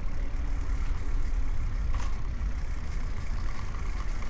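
Steady low rumble of wind buffeting the camera microphone while riding a bicycle, with a single sharp click about two seconds in.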